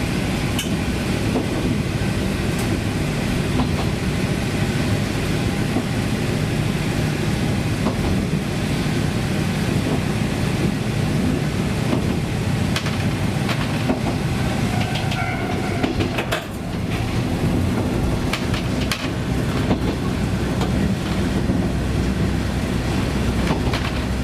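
1965-built KiHa 20 diesel railcar running along the line: a steady diesel engine and running drone, with the wheels clicking over rail joints every few seconds.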